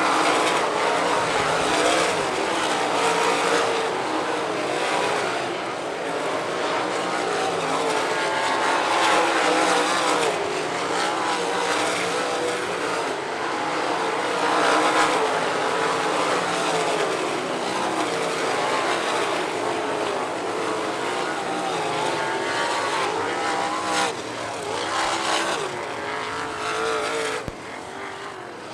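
A field of winged sprint cars racing at full speed on a dirt oval, many engines running together with their pitch rising and falling as the cars accelerate and pass. The sound gets quieter over the last couple of seconds.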